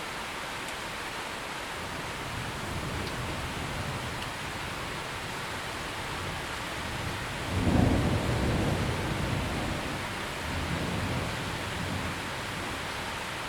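Steady heavy rain with thunder rumbling in the distance. A low rumble swells a couple of seconds in, a louder peal breaks suddenly just past halfway and fades over a few seconds, and a softer rumble follows near the end.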